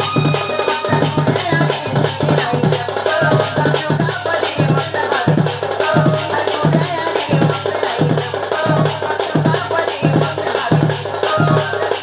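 Danda folk music: drums playing a steady beat of about one and a half strokes a second, with a melody line above it.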